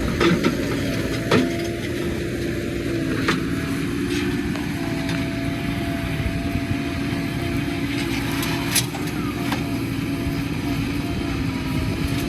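Diesel engine of a JCB backhoe loader running steadily under load with a constant whine, while it loads a truck; a few sharp knocks, the loudest about a second in and near the end.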